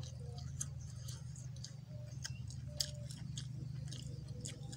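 A person chewing grilled chicken with open-mouthed, wet smacking and irregular clicks, several a second, over a steady low hum.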